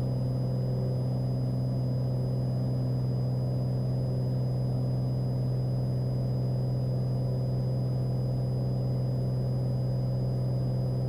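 Cessna 182 Skylane's piston engine and propeller droning steadily at climb power, heard inside the cabin. A faint steady high whine sits above the drone.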